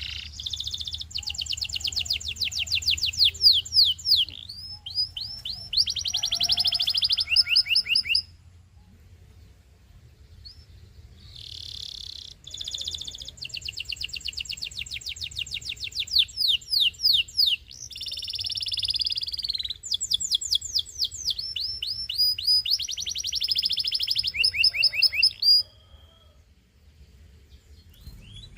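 Domestic canary singing: two long song phrases of rapid trills and rolls, each a fast run of repeated high notes, with a pause of a few seconds between them.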